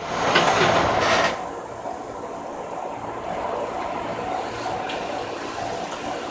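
Electric commuter train pulling away from a station, heard from inside the front cab: a loud hiss for about the first second, then a quieter, steady running sound with a faint tone from the train's motors as it gathers speed.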